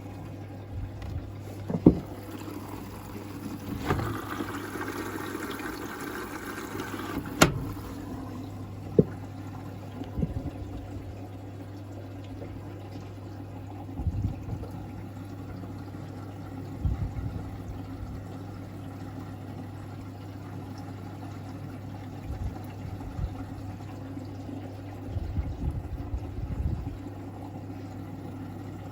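Logik L712WM20 washing machine running its service-mode test cycle: water running into the machine over a steady low hum, with several sharp clicks and knocks, the loudest about two and seven seconds in.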